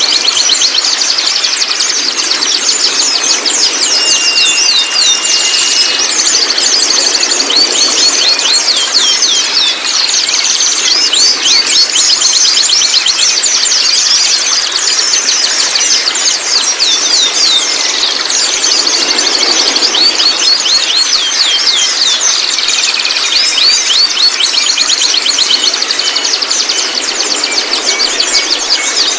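White-rumped shama birds calling in a dense, unbroken stream of quick high chirps and short falling whistles, many per second, with one held note about four seconds in.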